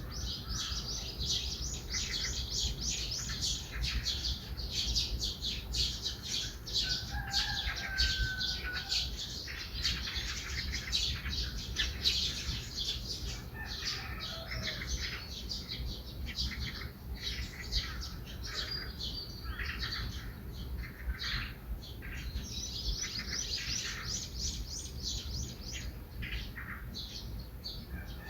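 Morning birdsong: small birds chirping rapidly with many overlapping short chirps, and a single whistled note about a third of the way in, over a steady low rumble.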